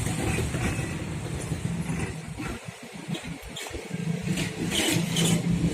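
Road traffic with vehicle engines running and revving close by, the engine rumble easing off midway and rising again near the end.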